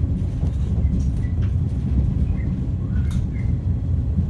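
Interior running noise of a 455-series express-type electric train in motion, heard inside the KuHa 455 passenger car: a steady low rumble of the wheels on the track, with a few faint short high chirps scattered through it.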